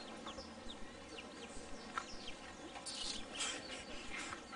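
A bird chirping, a series of short quick falling notes, a few a second. From about three seconds in, brief hissy rustling bursts come over it.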